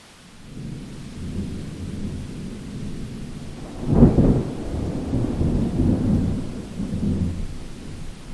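Thunder rumbling over steady rain. A low rumble builds from about half a second in, breaks into a loud crack about four seconds in, then rolls on and eases toward the end.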